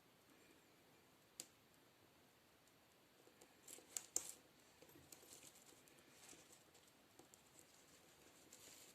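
Faint clicks and light rustling of small objects being handled, with a sharp click about a second and a half in and a few louder clicks around four seconds in.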